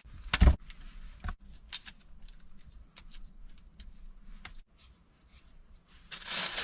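Handling sounds of cooking prep in a small space: a knock about half a second in, then scattered light clicks and taps, and a short rustle near the end.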